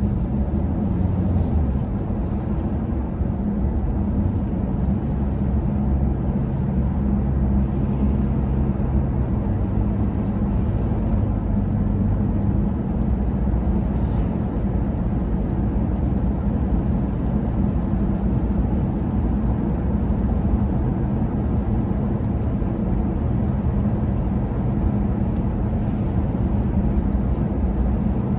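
Steady low vehicle rumble with a constant low hum.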